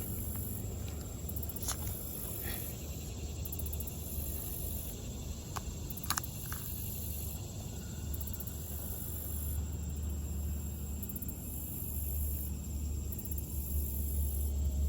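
High-pitched insects calling in on-off pulses every second or two, over a steady low rumble on the microphone, with a few light clicks.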